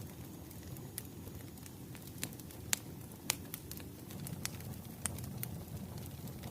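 Wood fire crackling: irregular sharp pops and snaps over a low, steady rumble of flames, with two louder pops near the middle.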